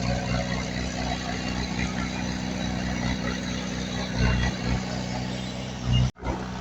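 Diesel engine of heavy earthmoving machinery running steadily. The sound drops out suddenly and briefly near the end.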